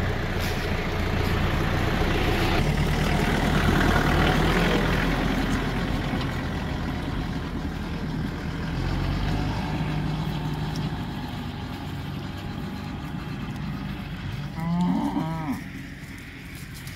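Cattle mooing, waiting to be fed, with a steady vehicle engine running underneath. A clear moo comes about fifteen seconds in.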